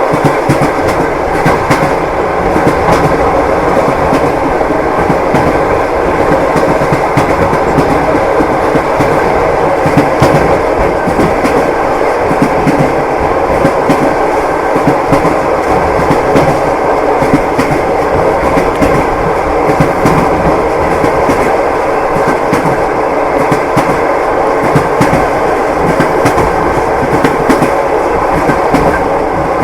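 Passenger train running steadily along the track, its wheels clattering over the rails with a continuous rumble underneath.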